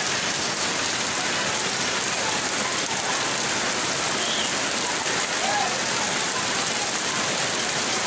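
Heavy rain pouring steadily, a dense, even hiss. A few faint distant voices call out now and then.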